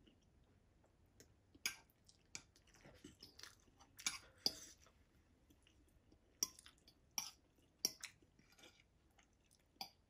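Faint close-up eating sounds: a person chewing instant noodles, with scattered short sharp clicks and scrapes of a fork against a plate.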